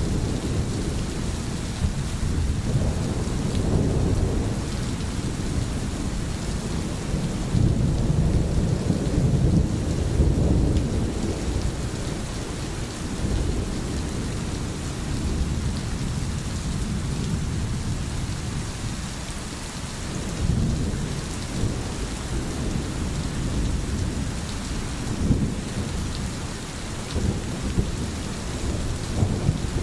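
Steady rain hissing, with low rolls of thunder that swell and fade several times.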